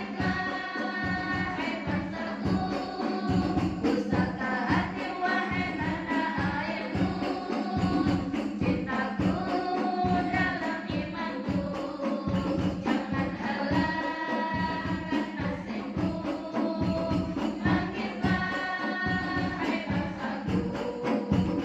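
Women's choir singing together in unison over a steady beat of hand drums, about two strikes a second.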